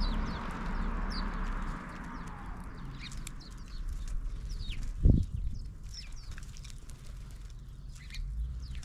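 Small songbirds calling with many short, high, falling chirps. A rush of noise fades away over the first two seconds, and a single low thump about five seconds in is the loudest sound.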